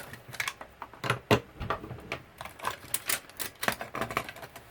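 Irregular clicks and light knocks of the plastic casing and parts of an old label machine being handled and pried apart during disassembly.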